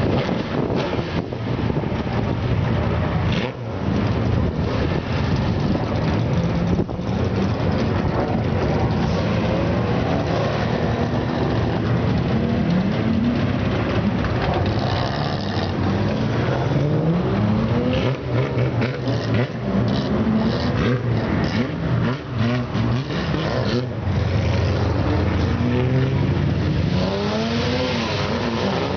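Classic Nissan Skylines and S30 Fairlady Z with loud aftermarket mufflers accelerating hard and revving, the engine pitch rising again and again as one car after another pulls away.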